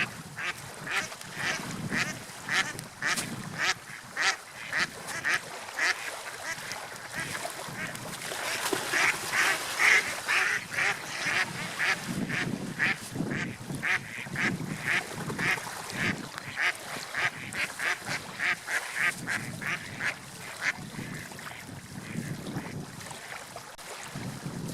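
Birds calling in a quick, repeated series of short calls, about two or three a second, loudest about ten seconds in, over a low background wash.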